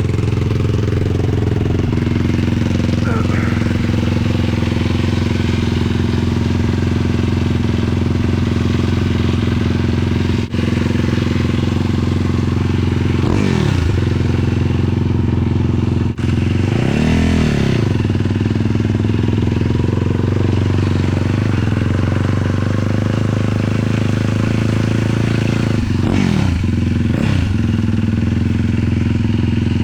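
Single-cylinder 450cc sport quad engine running steadily, with a few brief revs that rise and fall in pitch.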